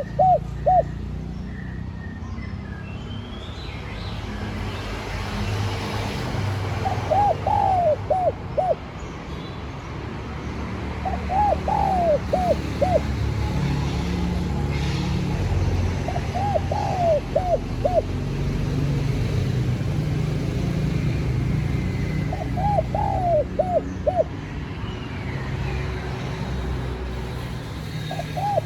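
Spotted dove cooing its song, a short phrase of several quick coos repeated four times with about five seconds between, over a steady low rumble.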